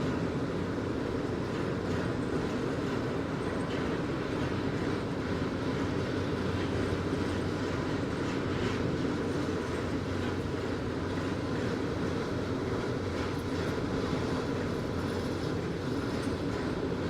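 Passenger train running on the rails: a steady rumble of wheels on track with faint clicks over the rail joints.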